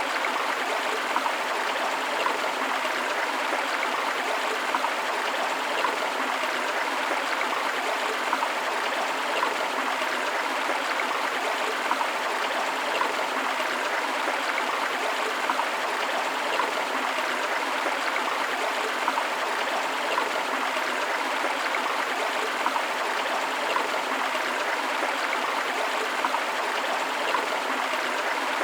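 Forest river flowing: a steady rush of water with small, irregular splashes and no change throughout.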